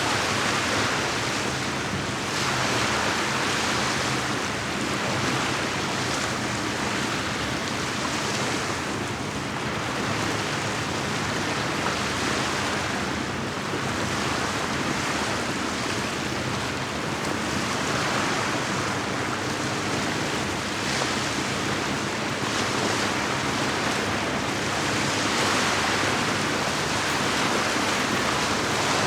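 Small lake waves lapping against the shore, a steady wash that swells and eases every few seconds.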